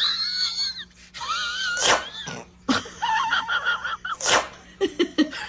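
A pet's high-pitched, wavering vocal calls, three in a row, with a few sharp breathy noises between them.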